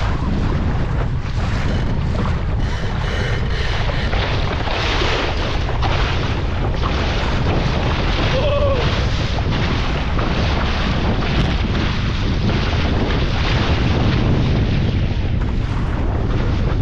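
Strong wind buffeting the microphone in a heavy, steady low rumble, over the rush and splash of water around a small sailing dinghy under way.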